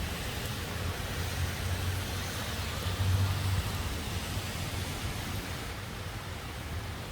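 Downpour and strong storm wind as a steady hiss, with a low rumble of gusts buffeting the microphone that swells about three seconds in.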